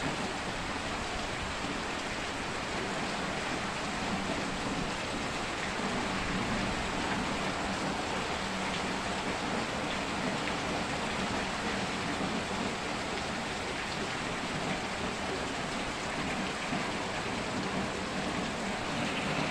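Rain falling steadily, splashing into standing water on a flooded concrete yard.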